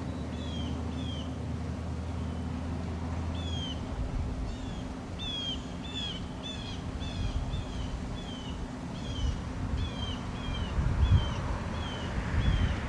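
A bird calling over and over with short, down-slurred whistled notes, coming faster and more regularly after the first few seconds, over a low outdoor rumble. A steady low hum stops about four seconds in.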